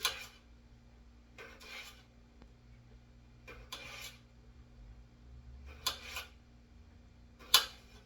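Five short scraping strokes in kitchen food preparation, spaced about every one and a half to two seconds; the first and last are sharp, and the last is the loudest.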